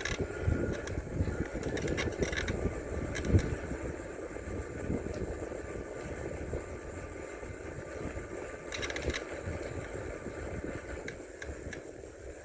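Bicycle riding slowly along a road: a steady low rumble of tyres and wind, with a few light clicks and rattles near the start, about two and three seconds in, and again about nine seconds in.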